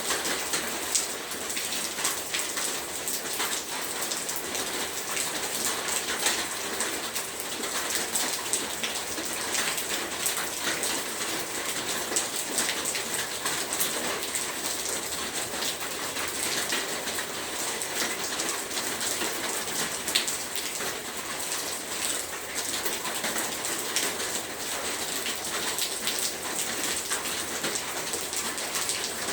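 Heavy rain falling steadily: a dense, even hiss with many separate drop impacts striking a surface.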